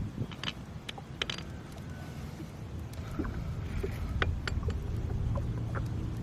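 A gill net being hauled by hand into a small boat: scattered drips, small splashes and light knocks against the hull over a steady low rumble.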